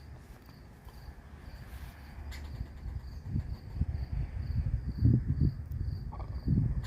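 A cricket chirping steadily, a high pulse repeated about two and a half times a second, over low rumbles and thumps that grow louder about five seconds in.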